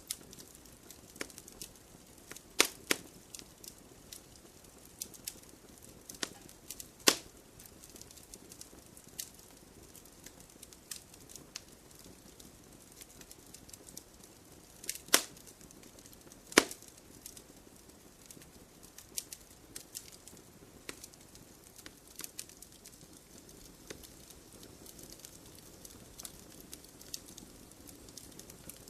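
Wood campfire burning and crackling: a soft hiss of flames with scattered sharp pops and snaps, a few of them much louder than the rest.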